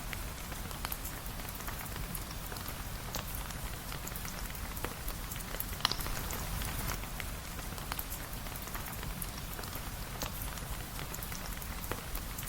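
Steady rain, an even hiss with scattered sharp ticks and pops throughout, one louder pop about six seconds in.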